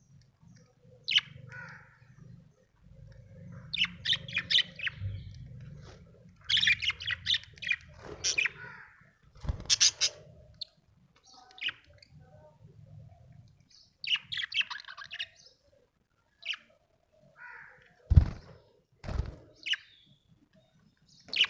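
Budgerigar chirping in short bursts of rapid high chirps separated by brief pauses, with a few dull thumps, two of them close together near the end.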